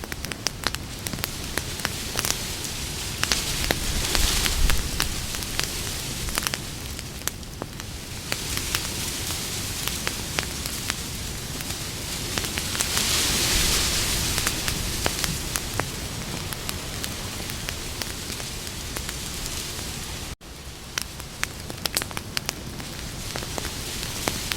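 Wood campfire burning, with a constant hiss and dense crackling and popping. The fire swells louder twice, and the sound cuts out for an instant about twenty seconds in.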